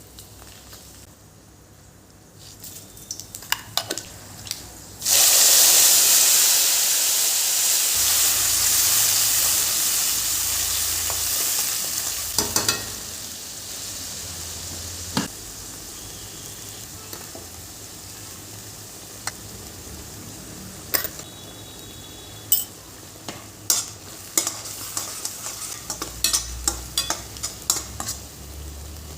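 Food added to hot oil in a pan: a loud sizzle starts suddenly about five seconds in and slowly dies down. A spatula clinks and scrapes against the pan as the food is stirred.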